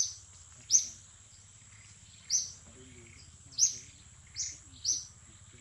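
A bird giving short, sharp, high chirps, six in all, spaced irregularly about a second apart, over a steady high-pitched insect drone.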